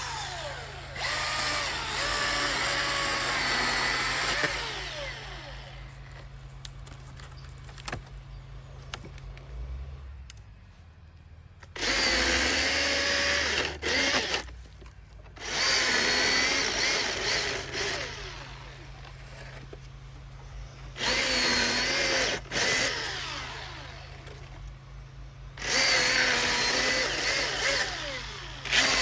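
Battery-powered Milwaukee M18 chainsaw run in five bursts of a few seconds each, its electric motor whine falling in pitch as it spins down after each burst.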